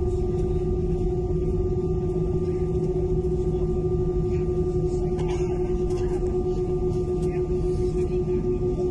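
Airbus A320 cabin hum: a steady droning tone with fainter higher tones over a low rumble, pulsing slightly near the end.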